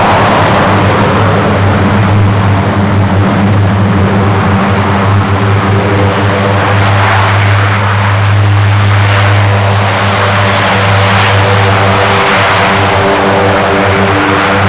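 Propeller aircraft running its engines close by: a loud, steady low drone with a hum of several evenly spaced propeller tones over engine noise.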